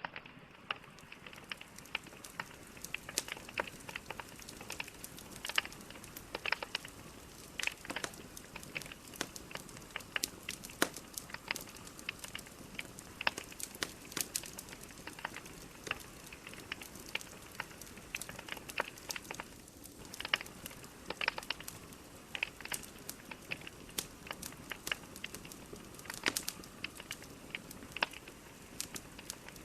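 Burning logs in a fireplace crackling: a soft steady hiss with frequent sharp, irregular pops.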